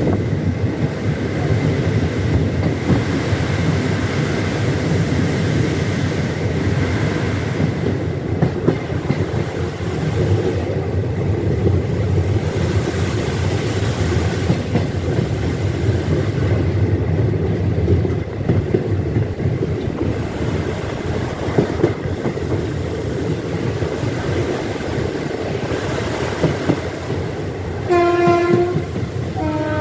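Kolkata–Haldibari Superfast Express running at speed, heard from aboard a coach: a steady rumble of wheels on the track with occasional knocks from the rail joints. Near the end the locomotive's horn sounds once, for about a second.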